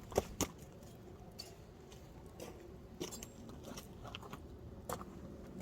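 Wood fire crackling, with scattered sharp snaps and pops, two close together just after the start.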